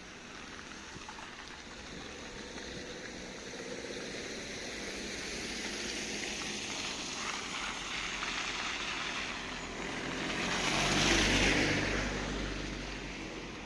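A car driving past: its engine and tyre noise build slowly, are loudest about eleven seconds in, then fade away.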